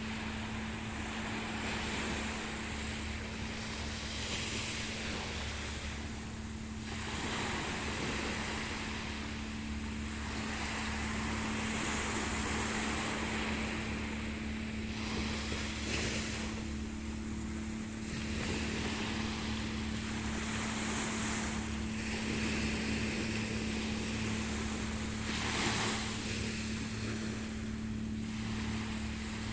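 A steady machine drone with a constant hum runs under a rushing wash of waves and wind that swells and fades every few seconds.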